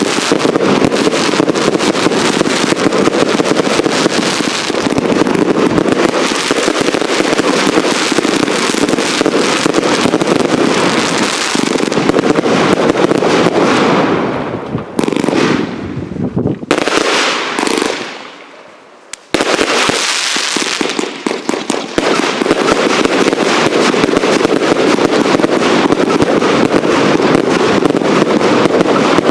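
Fireworks barrage: a dense, rapid run of bangs and crackles that thins out about halfway through, falls almost silent for a second or two, then starts up again at full strength.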